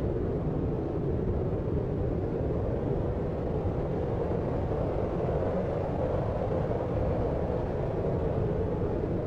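Deep white noise for sleep: a steady, even low whoosh, most of it deep and dull, with no separate sounds and no change in level.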